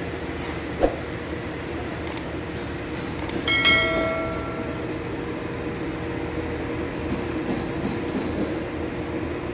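A steady machine hum, with a sharp knock a little under a second in and a metal part clinking and ringing for about a second around three and a half seconds in, as engine parts and tools are handled during an engine teardown.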